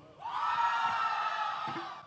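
Concert audience cheering and whooping right after a song is announced, swelling up quickly and tailing off slightly.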